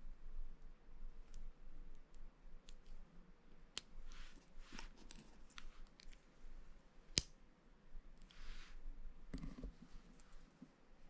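Plastic Lego pieces being handled and snapped together: scattered small clicks, one sharp loud click about seven seconds in, and a few short stretches of rustling.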